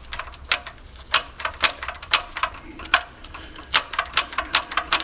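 Irregular sharp clicks and clacks, several a second, from a worn-out timing chain and its gears being handled, the slack chain links knocking together.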